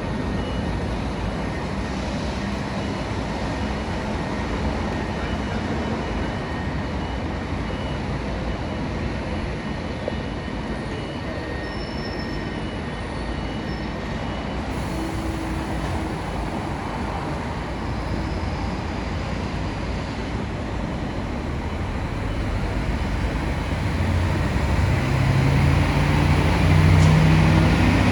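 Heavy diesel bus engine running amid steady road-traffic noise, growing louder with a deeper engine note near the end.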